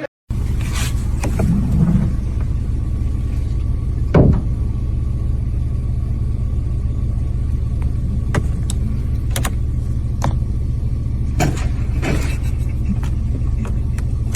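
Steady low rumble, like a running vehicle, with scattered sharp clicks and knocks, the loudest about four seconds in.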